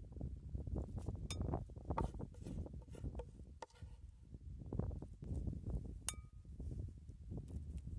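Food-preparation clatter: scattered knocks and clinks of utensils and dishes, with one clear ringing clink about six seconds in.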